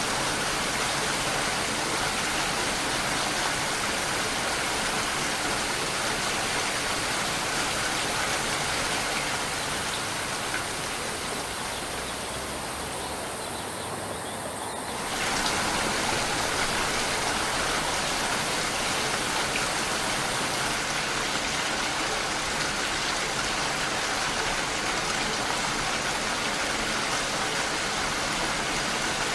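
Steady rain falling, an even hiss of many drops. About halfway through the sound thins and dips a little, then cuts straight back to full strength, as at a loop or edit point in the recording.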